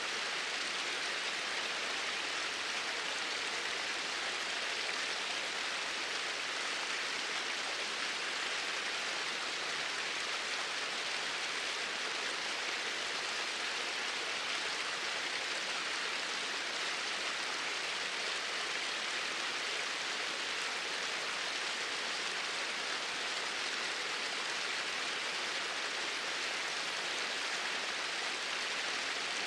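Flowing water, a steady even rush with no change throughout.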